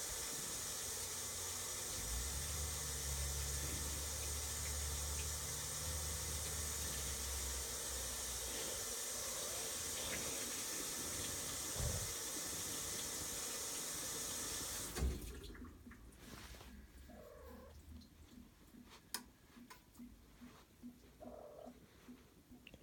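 Whirlpool top-load washing machine running with a steady rush of water and a low hum, which cuts off suddenly about fifteen seconds in. Afterwards faint regular ticking and a cat meowing softly twice.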